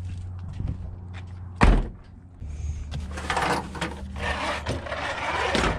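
A single heavy thud, like a door being shut, about a second and a half in. It is followed by about three seconds of rustling and clattering handling noise that stops abruptly, over a low steady hum.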